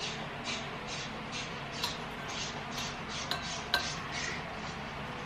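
A person chewing food, soft mouth sounds about two a second that stop a little past the middle. There are a few light clinks of a utensil on dishware.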